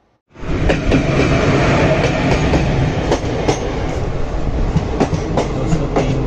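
Passenger train carriage of the Maharashtra Express running along the track: a loud rush of wheel and rail noise with irregular sharp clacks as the wheels pass over rail joints. It cuts in suddenly just after the start.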